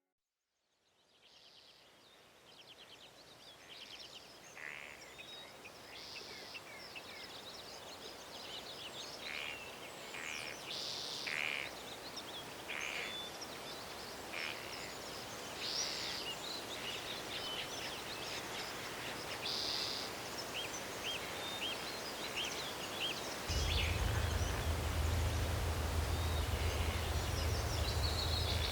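Forest ambience fading in from silence: a steady hiss with scattered short bird calls. About three-quarters of the way through, a steady low rumble comes in and becomes the loudest sound.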